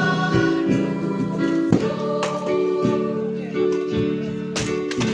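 Group of voices singing a song together with acoustic guitar strumming along.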